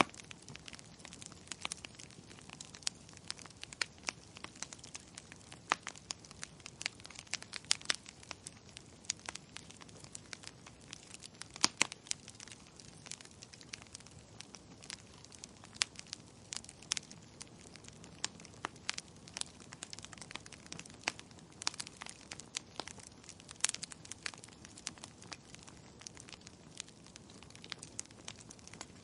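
Wood fire crackling in a fireplace: frequent, irregular sharp pops and snaps over a soft, steady hiss.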